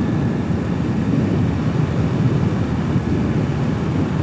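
Hawk 250 enduro motorcycle's single-cylinder engine running steadily while riding, picked up by a helmet-mounted camera's microphone along with the rush of the ride.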